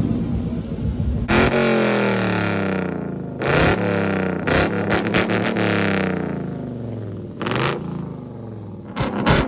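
Car engine revved in repeated sharp blips, about five times, the pitch sliding down after each one.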